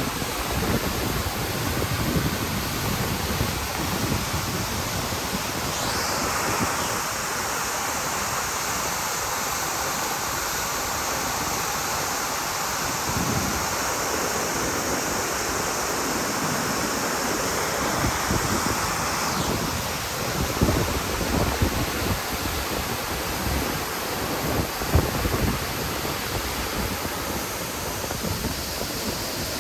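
Waterfall rushing steadily, with wind buffeting the microphone in low gusts. The rush turns brighter and fuller from about six seconds in until about nineteen seconds.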